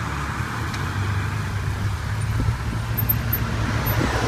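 Road traffic: a steady low rumble of vehicles going by on a main road.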